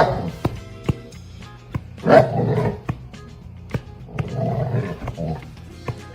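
An animal making rough, low calls three times, over background music with a steady beat.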